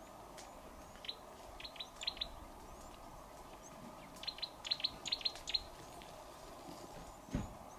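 A bird calling in two quick bursts of short, sharp, downward-slurred high notes, the second burst longer. A low thump comes near the end.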